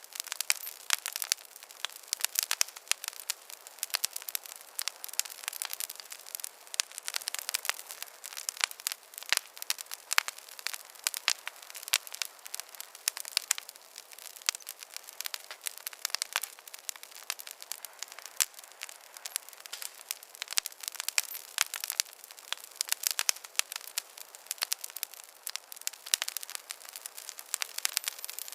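Campfire burning with a steady stream of irregular crackles and sharp pops over a faint hiss of flame.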